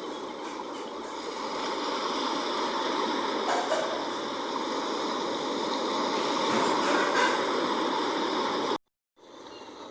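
Sea water rushing and washing steadily, swelling slightly after a couple of seconds. It cuts out abruptly to silence for a moment near the end, then resumes more softly.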